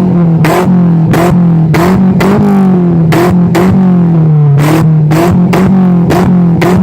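Peugeot 206 GTI's four-cylinder engine held at high revs through a full stainless exhaust, its note wavering slightly. Sharp pops from backfire crack out of the exhaust every half second or so.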